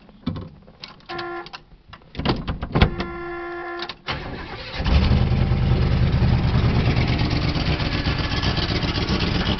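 A 1969 Oldsmobile Cutlass S being started: a few clicks and two short buzzing tones, then the engine catches about five seconds in and runs steadily. The car does not always want to crank, which the owner puts down to a faulty neutral safety switch on the shifter.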